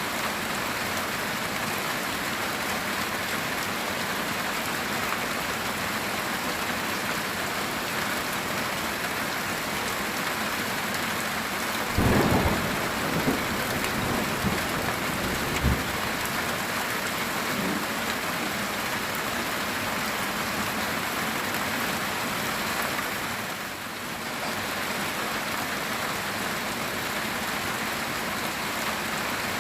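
Heavy rain on a metal tin roof, a steady downpour. About twelve seconds in, a thunderclap breaks out and rumbles on for a few seconds.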